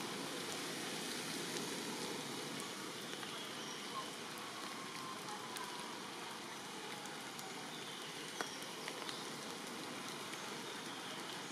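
Steady rain falling, an even hiss with a few scattered sharp ticks of drops.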